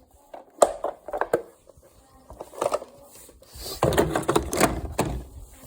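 Plastic robot-vacuum dustbins being handled: a few sharp clicks and knocks about a second in, then a second or so of rattling and rustling near the end.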